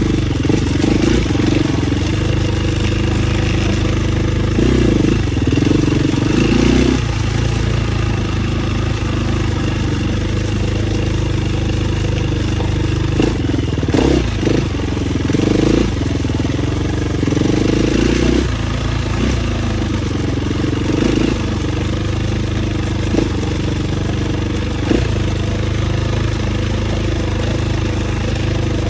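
Dirt bike engine running as it is ridden, the throttle opened and eased in surges every few seconds, with a few sharp knocks along the way.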